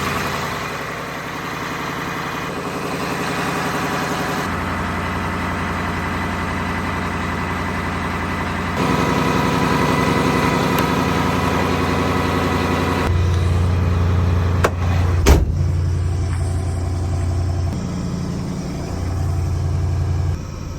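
Kamaz truck's diesel engine running through its warm-up, its steady hum changing in speed and loudness a few times. A sharp knock about fifteen seconds in is the loudest moment.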